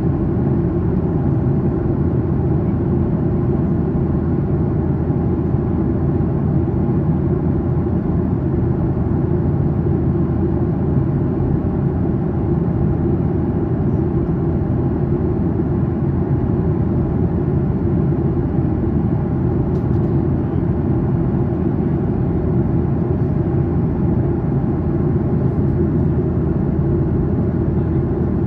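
Steady drone of a Boeing 737-800 in flight heard from inside the passenger cabin: its CFM56-7B engines and the airflow over the fuselage make an even, low rumbling noise. There is a faint click about twenty seconds in.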